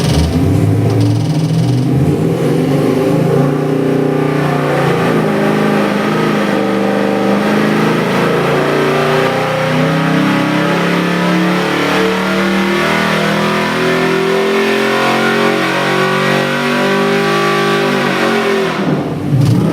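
Chevy 350 small-block V8 crate engine (375 hp) running and being revved, its pitch rising and falling repeatedly as the throttle is worked.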